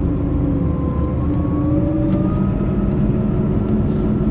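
Scania K340 coach's diesel engine running under way, heard from inside the coach: a steady low drone whose pitch dips slightly and then rises a little near the middle.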